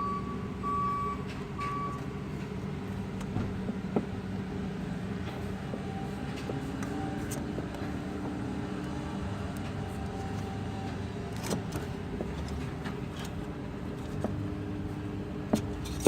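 A steady engine-like hum from a motor running in the background, with short repeated beeps in the first two seconds and a few scattered light clicks and knocks.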